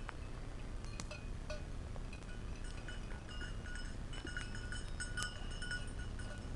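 Sheep bells clinking irregularly as the sheep move about, short metallic dings at several pitches.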